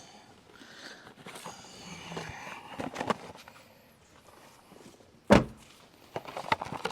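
Someone moving about and handling camping gear: scattered light knocks and clicks, then one sharp, loud thunk a little past five seconds in.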